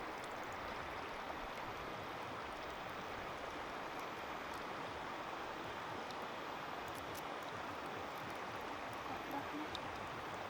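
Steady rush of running water, even throughout, with a few faint clicks.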